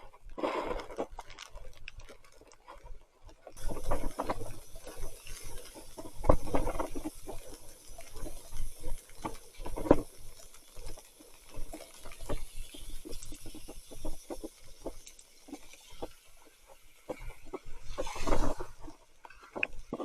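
Mountain bike ridden over a muddy trail in heavy rain: irregular knocks, rattles and splashes from tyres and frame, with several louder surges. A steady high hiss comes in about three and a half seconds in and fades out around fifteen seconds.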